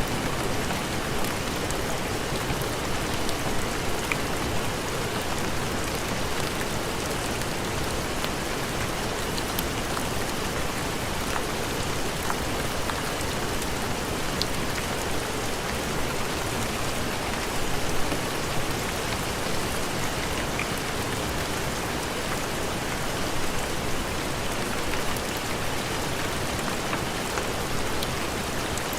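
Steady heavy rain, an even wash of noise, with scattered small ticks and pops through it.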